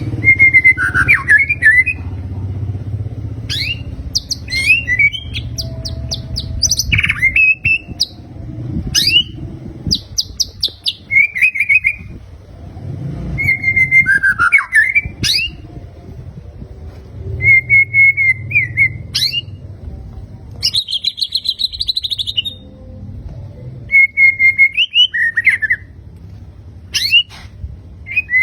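White-rumped shama (murai batu) singing in short, varied phrases: rapid stuttering runs of repeated notes alternating with clear whistles that bend in pitch, with brief pauses between phrases.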